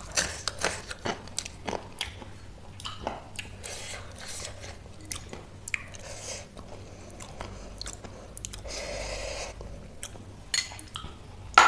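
Close-miked chewing of crunchy spicy chips-and-noodle chaat, with many short crisp crunches and mouth clicks, thickest in the first few seconds and again near the end.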